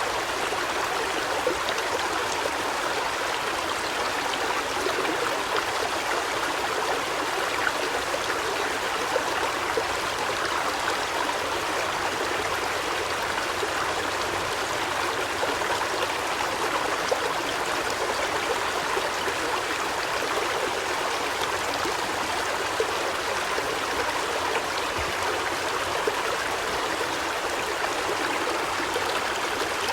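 Steady rush of running, splashing water, unbroken throughout.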